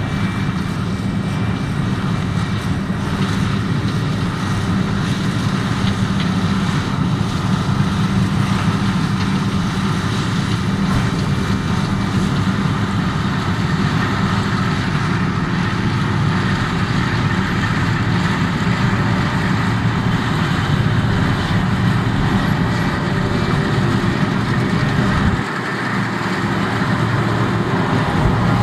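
Claas Lexion 670 combine harvester running steadily, with a low, even drone. The low end dips briefly about 25 seconds in.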